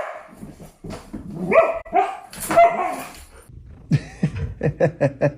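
Dog barking: a few separate barks, then a quick run of short barks, about six a second, from about four seconds in.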